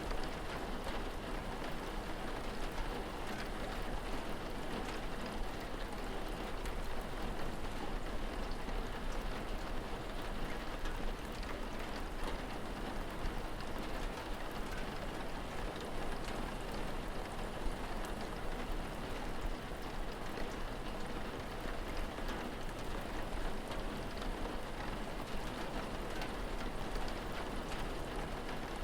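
Steady rain falling, an even hiss dotted with many small drop taps.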